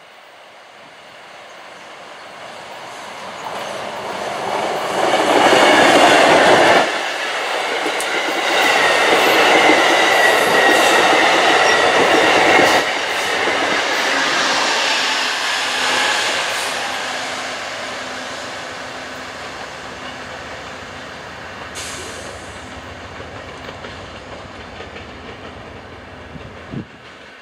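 A passenger train passing close by: its noise builds, is loudest for several seconds as it goes by, then fades slowly away, with a few sharp clicks near the end.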